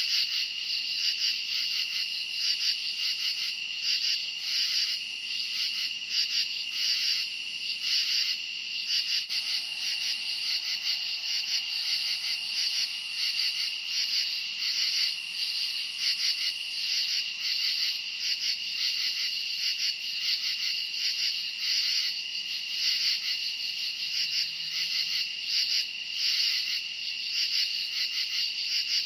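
Chorus of crickets chirping at night, a steady high-pitched trilling that swells in a regular pulse.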